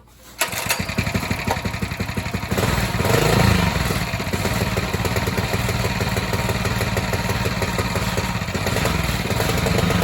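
Cold start of a Coleman mini bike's small single-cylinder engine with no exhaust fitted: it catches about half a second in and runs loud and raw with rapid firing, the revs rising around three seconds in and again near the end. The bike doesn't pull away under the revs, which the owner puts down to a bad clutch.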